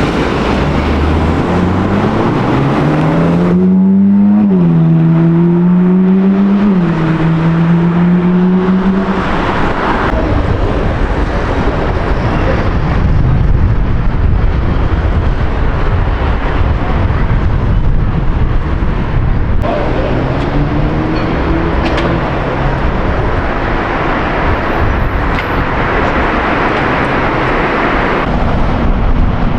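A car accelerating hard. Its engine note climbs, drops at a gear change about four seconds in, then climbs again and fades about nine seconds in. Steady road and traffic rumble follows, with another car's engine briefly rising about twenty seconds in.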